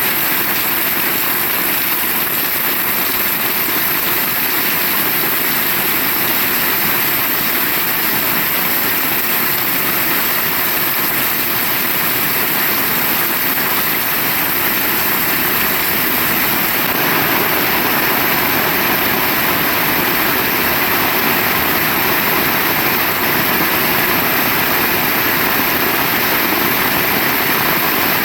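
Heavy rain falling steadily, a loud, dense, even hiss that swells slightly about two-thirds of the way through.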